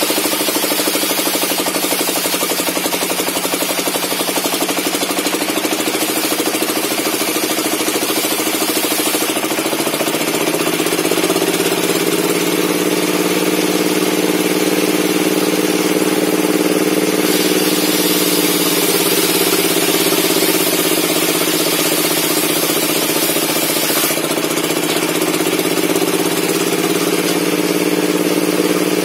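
Table circular saw for cutting logs running without pause, with a steady hum and a high hiss of the blade. Its pitch rises about ten seconds in, sags in the middle and picks up again near the end, as the load of the cuts changes.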